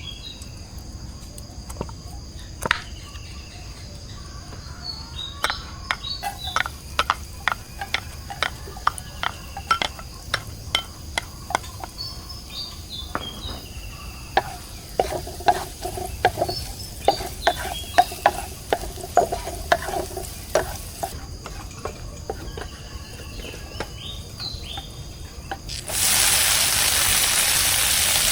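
A utensil knocking and scraping rapidly in a bowl, as when beating eggs, over a steady chorus of crickets and a few bird chirps. About 26 s in, a loud sizzle starts suddenly as food goes into hot oil and keeps going.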